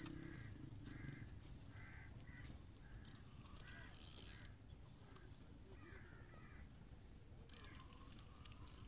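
Faint bird calling over and over, short calls about two a second for several seconds, then a wavering call near the middle.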